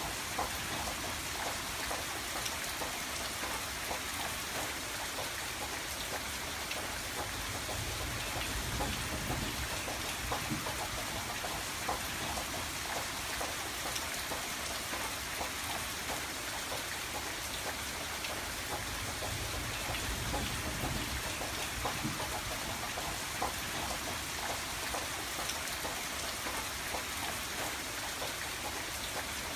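Steady rain falling on a window pane: a dense, even patter of many small drop ticks over a low rumble.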